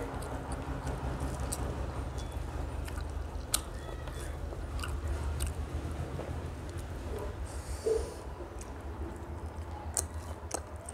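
Close-up chewing of a mouthful of rice and spicy chicken curry, with many short wet mouth clicks and smacks.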